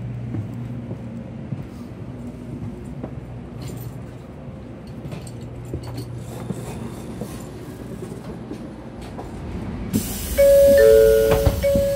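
Shinkansen car interior: the train runs slowly with a steady low hum and rumble and small rattles. About ten seconds in, a sudden loud hiss starts at the door vestibule, and a two-tone electronic chime sounds over and over as the train stops and the doors open.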